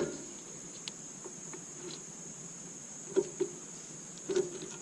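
A few light metallic clinks and knocks of engine parts and tools being handled: a sharper knock at the start, then a pair of clinks about three seconds in and another pair near the end, over a steady high-pitched hiss.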